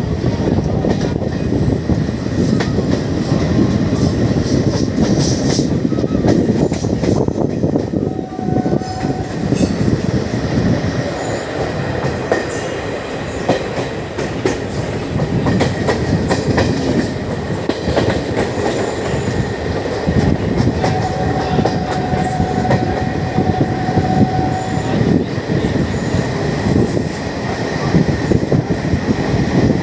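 Indian Railways train running on the tracks: a continuous heavy rumble with a rapid clatter of wheels over the rails. Twice a faint steady squeal comes through for a few seconds.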